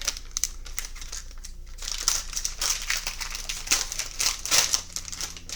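Foil trading-card pack wrapper crinkling and crackling as it is handled in the hands, getting louder in the second half.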